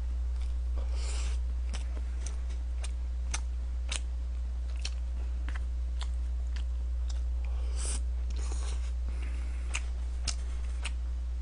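A man chewing a mouthful of meat and rice from a convenience-store lunchbox, close to the microphone, with irregular small mouth clicks and smacks throughout. A steady low electrical hum lies underneath.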